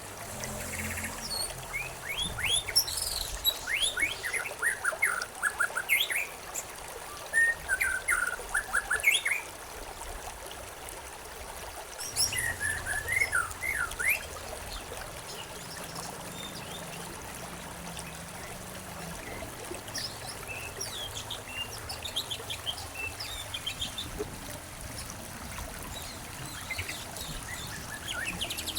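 Songbirds chirping over the steady trickle of a stream. Quick runs of sharp chirps and trills come thick in the first half, then thin out to occasional calls.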